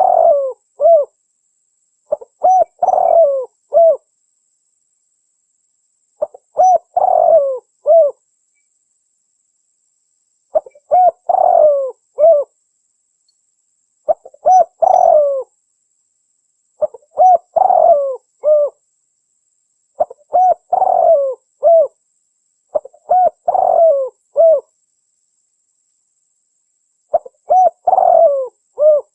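Spotted dove (tekukur) cooing: short phrases of several coo notes each, repeated about every three seconds with silent gaps between them.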